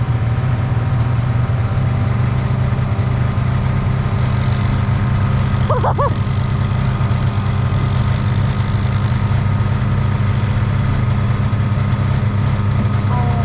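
Snowmobile engine running steadily at an even pitch, a loud continuous drone.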